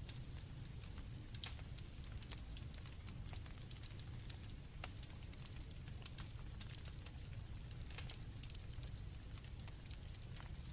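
Campfire crackling with irregular sharp pops over a low steady rumble, and crickets chirping steadily in the background.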